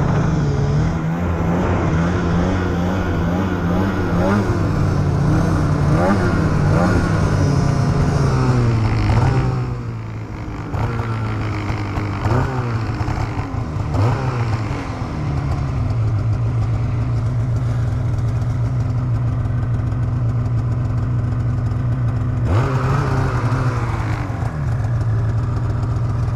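Polaris 9R two-stroke snowmobile engine under throttle while riding, its revs rising and falling again and again for the first ten seconds. After that come a few short blips, then it settles to a steadier, lower note, with one more rev-up a few seconds before the end.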